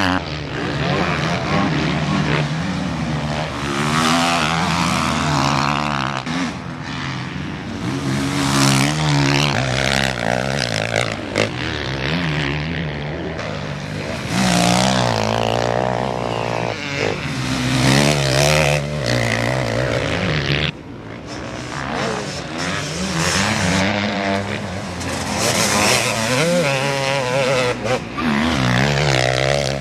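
Motocross motorcycles racing, their engines revving up and dropping back again and again through gear changes, swelling and fading every few seconds as bikes pass.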